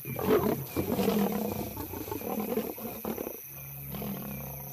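Lions growling and snarling in a confrontation over a kill, in irregular rough bursts for about three seconds, then giving way to a steady low hum.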